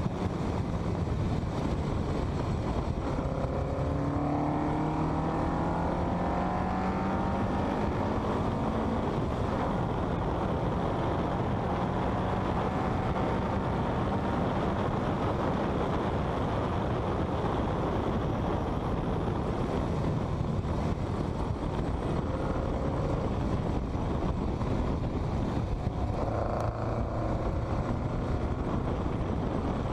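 Westfield kit car's engine pulling hard at track speed, its pitch climbing as it accelerates in the first several seconds, under heavy wind rush.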